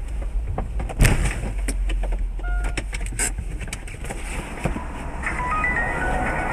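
Car collision heard from inside a vehicle: a steady low road and engine rumble, broken about a second in by one sudden loud impact, then scattered knocks and clatter. Short high beeping tones start near the end.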